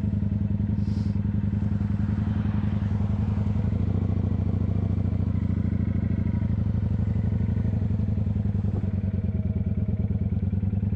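Kawasaki motorcycle engine running steadily while riding along, heard from on the bike, with a slight change in its sound about four seconds in.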